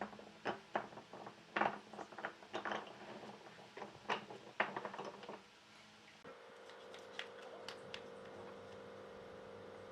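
Irregular light knocks and clicks of workshop handling, wood and tools being moved and set down. About six seconds in they give way to a faint steady hum with a few soft clicks.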